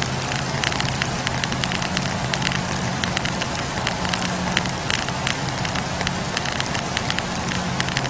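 Wood campfire crackling, with frequent irregular pops and snaps of burning firewood over a steady low hum that dies down briefly midway.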